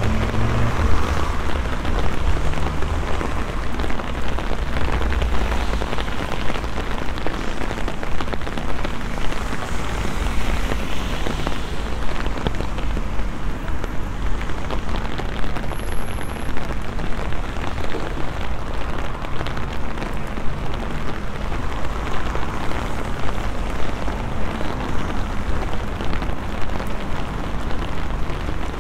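Steady rain falling on wet pavement and road, a dense, even patter of drops, with a low rumble underneath.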